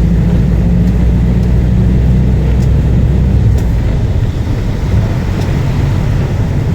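Motor vehicle engine running steadily with a deep low hum over a constant hiss; the deepest part of the hum drops away about four seconds in.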